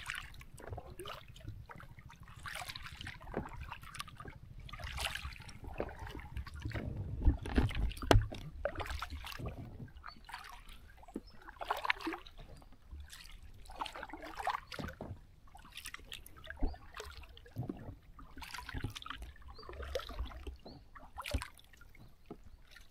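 Paddles dipping and pulling through river water in a regular stroke, a splash about every two seconds, with a low rumble underneath.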